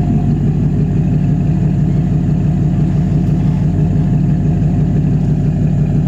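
Vehicle engine running at a steady idle, a low, even drone with no change in speed.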